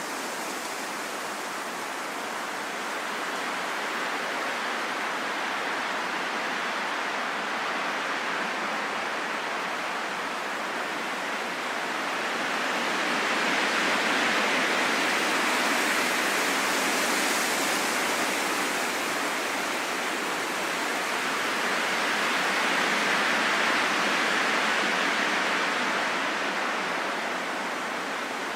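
Wind blowing steadily, rising in two slow gusts about halfway through and again near the end.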